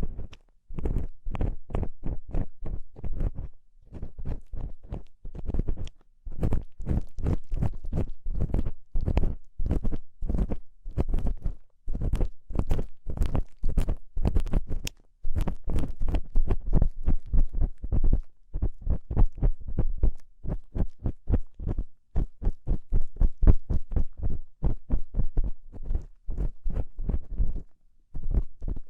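An ear-cleaning tool scraping and rubbing inside an ear close to a binaural microphone, in rapid strokes several times a second with a few brief pauses. The sound is deep and heavy.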